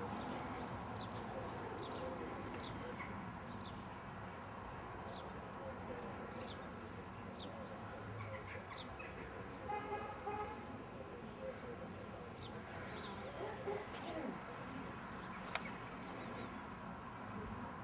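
Small birds chirping in short, high notes scattered throughout, over a steady outdoor background hiss, with one sharp click near the end.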